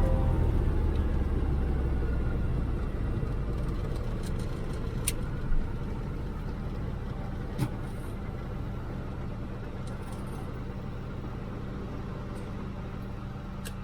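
Antonov An-2's nine-cylinder radial engine running with a steady low drone that slowly grows quieter. Two short clicks come in the middle.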